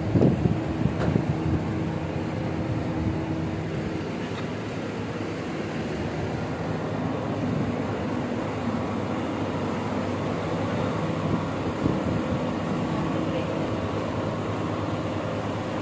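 Steady hum of a car engine idling, with a few louder rustling bumps in the first second or two.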